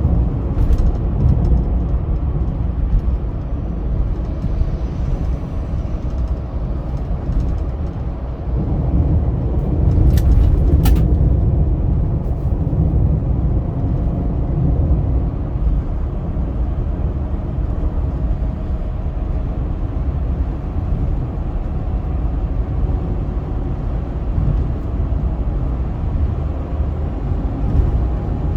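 Car driving on a highway: a steady low rumble of engine and tyre noise. Two short sharp clicks come about ten and eleven seconds in.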